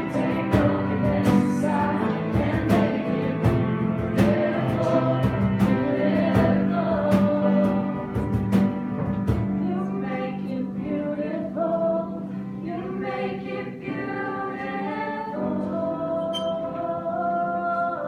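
Live worship music: several voices singing a slow, held melody together over instrumental backing. Regular percussion hits run through roughly the first half, then drop away, leaving softer sustained singing.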